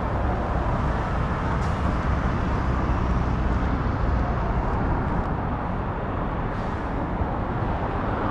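Steady outdoor road traffic noise with a low rumble.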